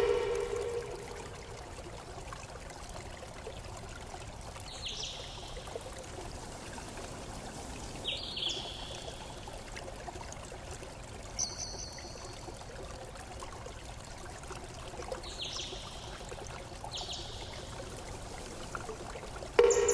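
Water flowing and trickling steadily in a stream, with short falling bird chirps about five times. A loud ringing tone is struck at the start and again near the end, fading away over about a second each time.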